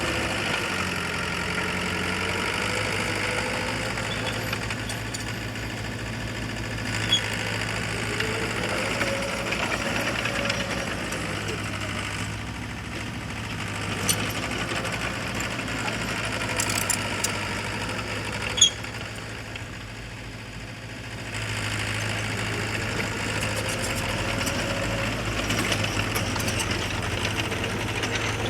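Heavy earthmoving machinery's diesel engine running under load, rising and falling in pitch, with a few sharp clanks. It eases off briefly about two-thirds of the way through, then picks up again.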